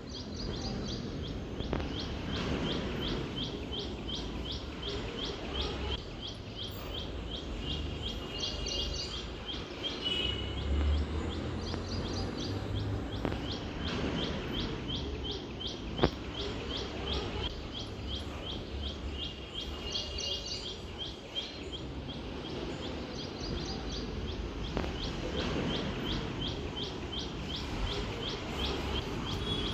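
A bird chirping in a long run of short, quickly repeated high notes over a steady low background rumble, with a single sharp click about halfway through.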